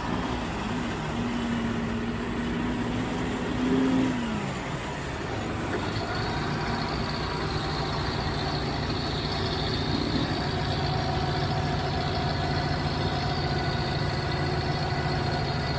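Semi-truck diesel engine running: a steady note that falls away about four seconds in, then a steady low drone.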